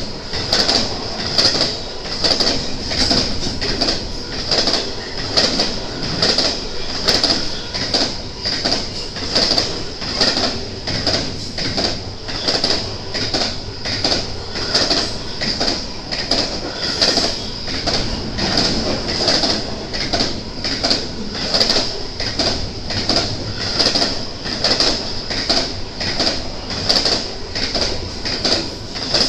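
BNSF intermodal freight train passing, its wheels clacking over rail joints in an even rhythm of about two clacks a second, with a steady high-pitched whine throughout.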